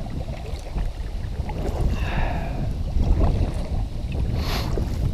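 Wind rumbling on the microphone while a kayak is paddled, with a short splash of a paddle blade in the water near the end.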